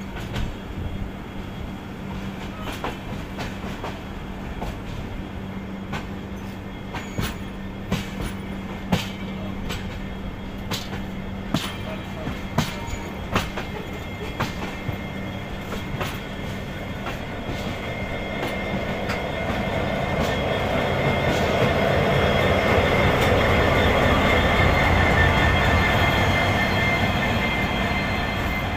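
Train wheels clicking irregularly over rail joints and points under a steady low hum. From about halfway a WDP4D diesel locomotive on the next track draws alongside, its engine rumble swelling to the loudest part near the end, then easing off.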